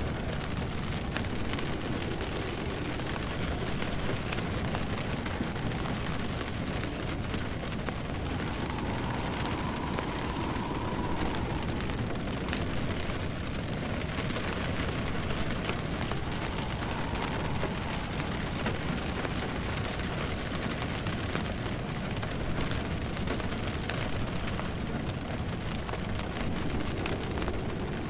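Steady rain on a surface mixed with the crackle of a wood fire, with fine short pops scattered through an even wash of rain.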